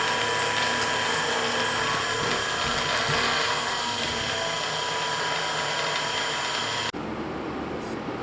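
A small electric motor whirring steadily, then cutting off suddenly about seven seconds in.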